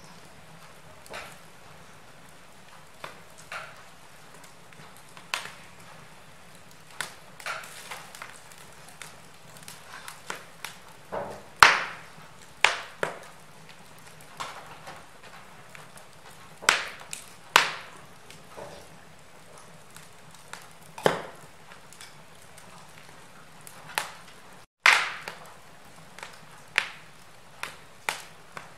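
Wood fire crackling in a fireplace: irregular sharp pops and snaps, a few much louder than the rest, over a faint steady hiss. The sound cuts out for a moment about 25 seconds in.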